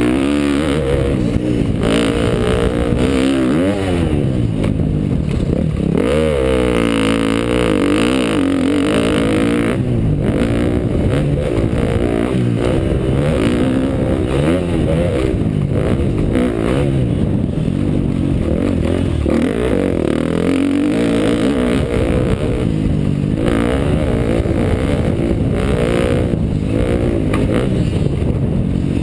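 2012 KTM dirt bike engine revving up and down over and over as it is ridden round a motocross track. Its pitch climbs and falls back every second or two with the throttle and gear changes.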